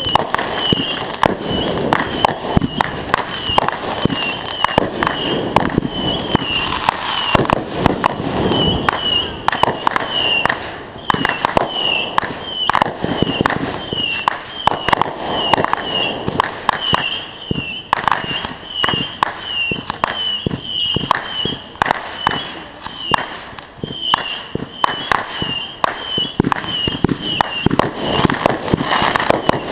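Consumer fireworks going off in rapid succession: a dense run of sharp bangs and crackles throughout.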